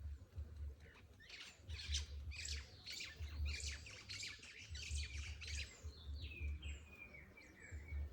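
A songbird singing: a fast chattering run of high notes, then a series of short downward-sliding whistles near the end. A low rumble comes and goes underneath.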